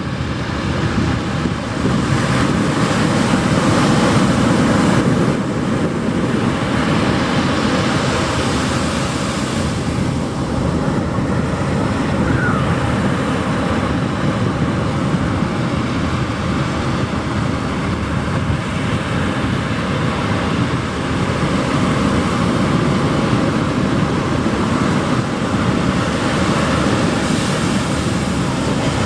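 Ocean surf breaking and washing up the beach: a continuous rushing noise that swells louder a few seconds in and again near the end.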